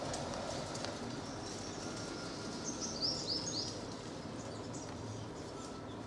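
A small bird giving a quick run of about four high chirps a little past the middle, over a steady outdoor background rumble.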